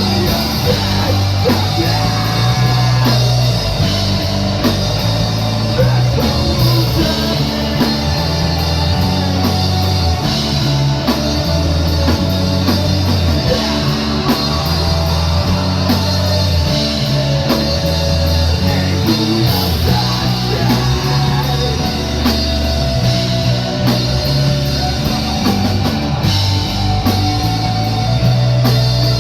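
Rock band playing live, loud and continuous: electric guitar, bass and drum kit.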